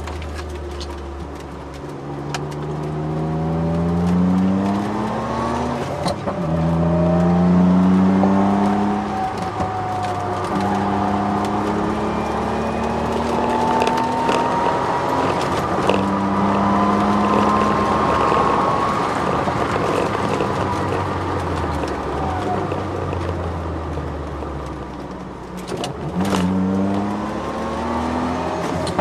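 Turbocharged Ford Sierra XR4x4 engine heard from inside the car on track, pulling hard with its pitch climbing through the gears and dropping back at each change, easing off twice near the end before building again. A thin rising whine rides over it midway, which the owner puts down to the car's solid diff mount.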